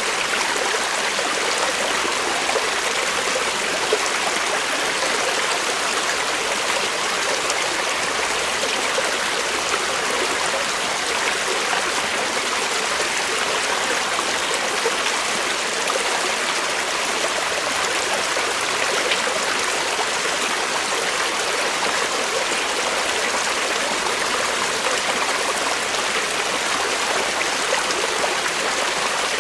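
Creek water flowing over rocks, a steady, even rushing with small gurgles.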